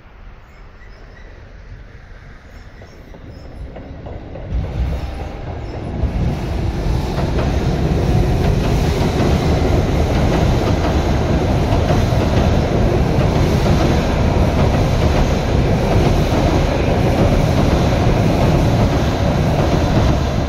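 Electric commuter train crossing a steel girder railway bridge: a loud rumble and rattle of wheels on the bridge deck, with clickety-clack from the rail joints. Fainter for the first few seconds, it gets louder about four to six seconds in and then holds steady.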